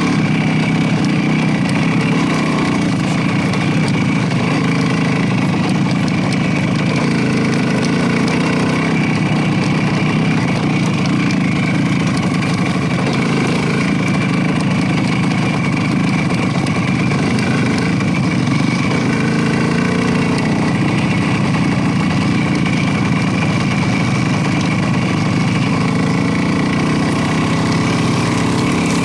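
Motorcycle engine running steadily at an even speed, with no rise or fall in revs.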